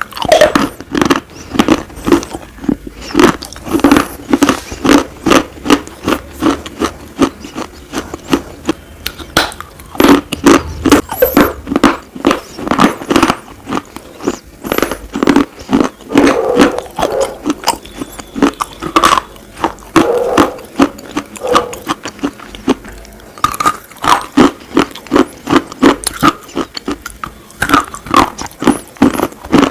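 Close-miked crunching of slate pieces being bitten and chewed: a continuous run of sharp, dry crunches, several a second.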